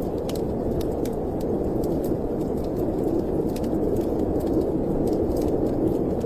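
Steady storm wind rushing, with a wood fire crackling over it in frequent short, sharp pops.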